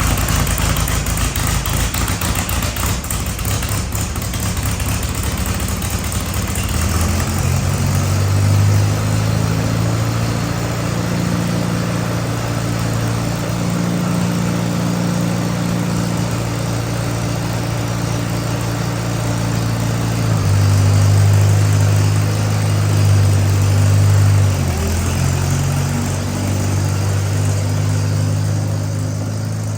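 Allis-Chalmers WD tractor's four-cylinder engine running just after starting, steady at first, with its speed stepping up about seven seconds in, changing again around twenty seconds in, and dipping briefly near twenty-five seconds.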